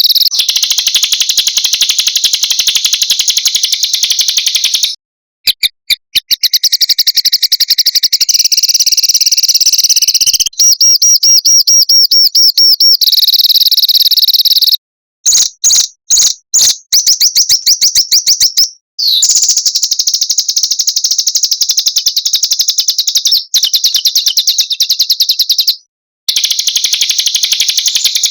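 Recorded songs of small songbirds spliced into a bird-tutoring track: fast, dense high-pitched trills and rattling rolls, broken by abrupt cuts and short silences several times, with a stretch of separate sharp single notes about halfway through.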